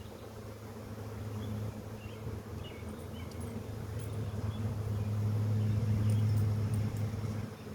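Honeybees buzzing around an opened hive during an inspection: a steady low hum that grows louder over the first several seconds.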